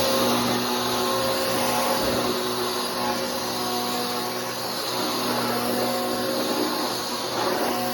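Bissell PowerForce Helix 3313 upright vacuum cleaner running: a steady motor hum under a rush of air.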